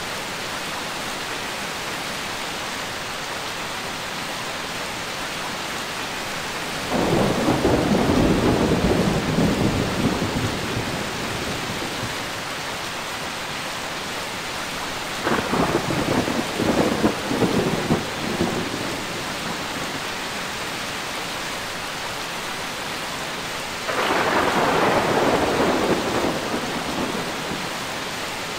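Steady heavy rain with three rolls of thunder: a rumble swells up about a quarter of the way in, a crackling, broken rumble comes just past the middle, and a third rumble comes near the end, each fading back into the rain after a few seconds.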